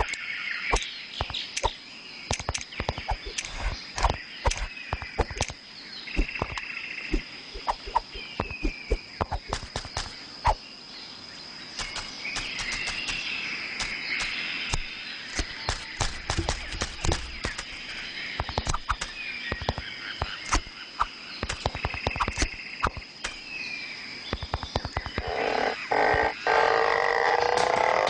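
Cartoon nature soundscape: frogs croaking with rapid, irregular clicks over a faint steady high whine, and short chirping calls now and then. Near the end a louder pitched cry comes in.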